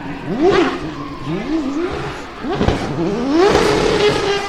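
Drift car's engine revving hard in several quick rises and drops, then a longer climb that is held high near the end.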